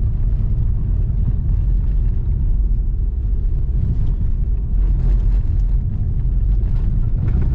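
Lada Vesta driving over a corrugated dirt road at about 60 km/h, heard inside the cabin: a steady low road and tyre rumble with a few faint knocks. The cabin does not rattle much on the new suspension struts.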